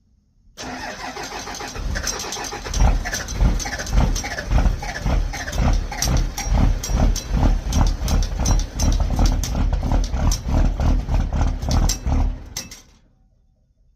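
Compound-turbocharged 12-valve Cummins inline-six diesel cold-starting: it cranks over about half a second in, catches and runs with a loud, even, pulsing beat, then stops abruptly near the end.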